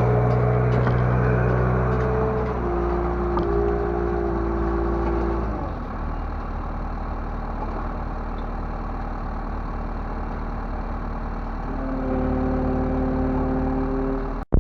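LONKING CDM307 skid steer loader's diesel engine running under changing load. It runs high for the first few seconds, drops to a lower speed about six seconds in, and picks up again near the end.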